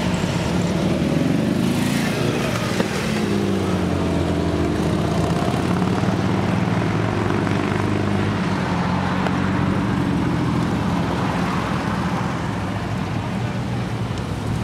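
Engines of classic cars running as they drive past one after another in a slow procession, with an engine note falling in pitch as one car passes close about two seconds in.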